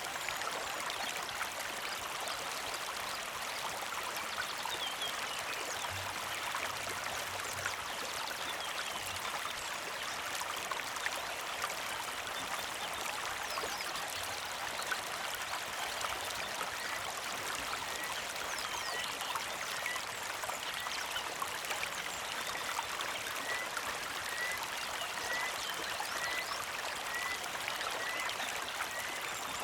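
Small mountain creek flowing and trickling steadily. In the second half a bird repeats a short chirp about once a second.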